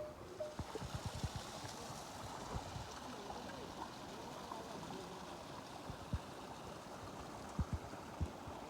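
Steady wash of running water or falling rain, with scattered soft low thumps in the first couple of seconds and again near the end.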